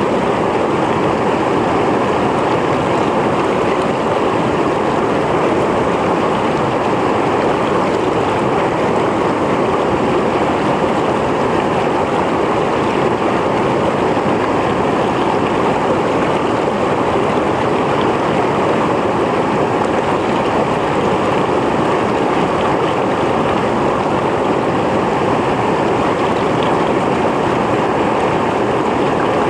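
Mountain stream flowing and splashing over rocks, a loud, steady rush of water.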